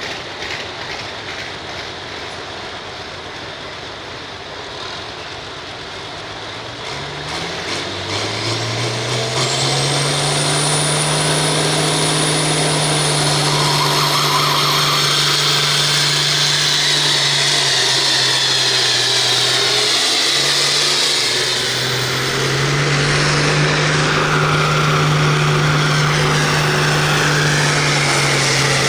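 Turbocharged diesel farm tractor engine in the turbo stock pulling class coming up to full throttle about seven seconds in and running hard under load, with a high turbo whistle that climbs in pitch. The engine briefly eases about two-thirds through, then comes back up to full power.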